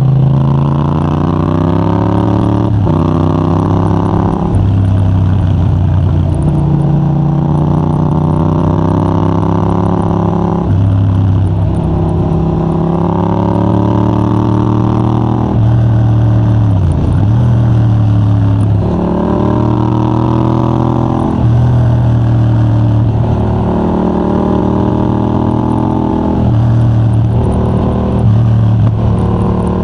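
Yamaha MT-07 parallel-twin engine through a de-catted Mivv GP Pro titanium exhaust with a dB killer, ridden hard: the pitch climbs again and again and drops sharply at each gear change or throttle roll-off, with one deeper drop and recovery about halfway through.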